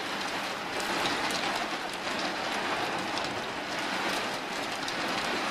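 Steady rain during a thunderstorm: an even hiss with many small, sharp ticks of drops striking a surface.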